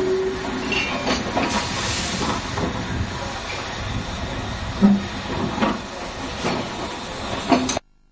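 Guard vans rolling slowly over the track as a Hunslet Austerity 0-6-0ST saddle tank steam locomotive propels them, with irregular knocks and clanks from the wheels and couplings, the loudest about five seconds in. The sound cuts out abruptly near the end.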